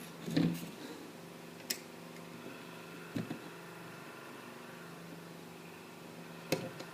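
A few brief clicks and knocks of a screwdriver working at a screw in an old printer's plastic case, over a faint steady hum.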